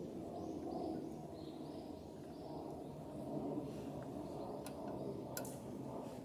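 Forest birds calling, short whistled notes repeated through, over a steady low rushing noise. Two or three sharp clicks come near the end.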